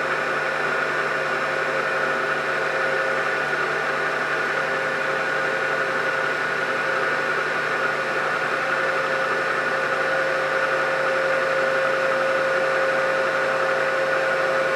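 Milling machine running on its lowest belt speed with a 1/2-inch end mill in the spindle: a steady hum and hiss with a constant whine.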